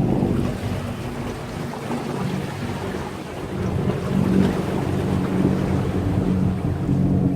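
Sea waves washing against a breakwater, with wind buffeting the microphone and a low steady drone underneath. The wash swells about halfway through.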